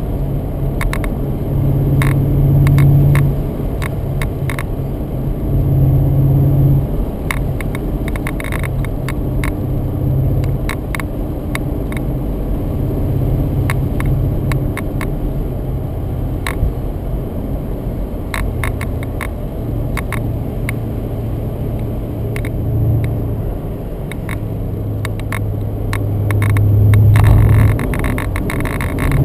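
BMW Z8's V8 engine running under way, with road noise; the engine note swells several times as the car accelerates, most strongly a couple of seconds before the end. Scattered short clicks and knocks run through it.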